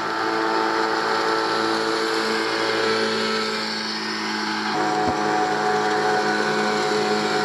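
Motorboat engine buzzing steadily as a boat passes close by on the river. Its engine note shifts about two-thirds of the way through.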